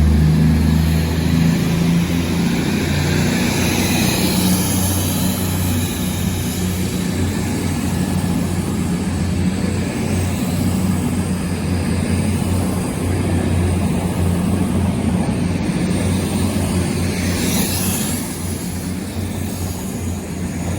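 Two coupled Class 221 Super Voyager diesel-electric units pulling out under power, their underfloor diesel engines running hard with a steady, deep drone.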